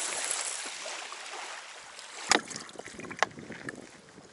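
Strong wind rushing, fading over the first two seconds. A little over two seconds in, a sharp knock, then a few lighter clicks of something being handled.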